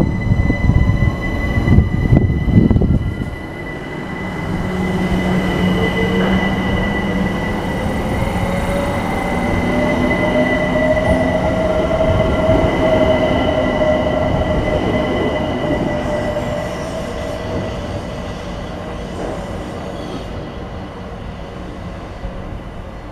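London Overground Class 378 electric multiple unit pulling away and accelerating: a rough rumble for the first few seconds, then a motor whine that rises in pitch over a steady high tone. The sound fades as the train moves off.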